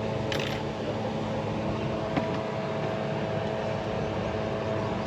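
A steady machine hum with several constant tones, with a brief hiss about half a second in and a single sharp click about two seconds in.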